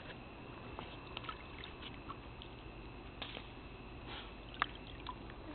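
Faint pool-water sounds: small drips, laps and clicks as the dogs nose at the water, over a steady high-pitched tone. A sharper click comes a little over four and a half seconds in.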